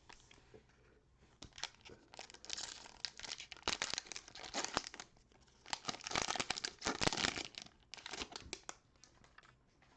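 Cellophane wrapper of a trading-card cello pack being torn open and crinkled by hand: a run of crackling rustles that grows loudest in two spells, in the middle and a little past it, then dies away near the end.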